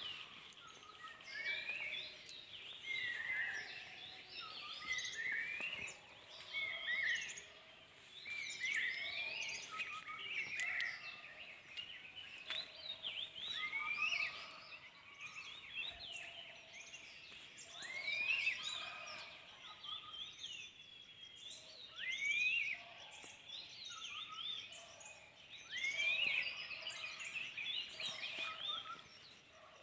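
Mixed forest birdsong from several species calling and singing over one another. One bird repeats a quick upward-sweeping whistle every few seconds.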